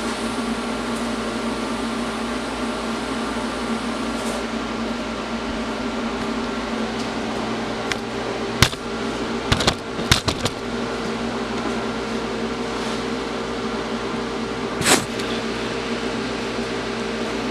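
Steady machine hum with a few held tones, broken by a cluster of sharp knocks about nine to ten seconds in and one more knock near fifteen seconds.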